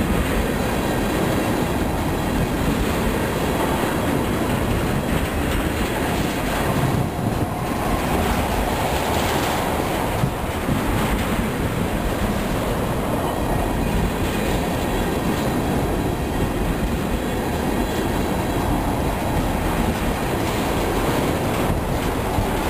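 Freight train of tank cars rolling past close by: the steel wheels run over the rails with a steady, loud rumble and clatter throughout.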